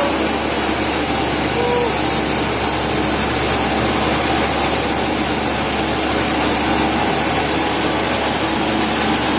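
Sawmill machinery running steadily, a loud, even mechanical noise with a constant low hum underneath.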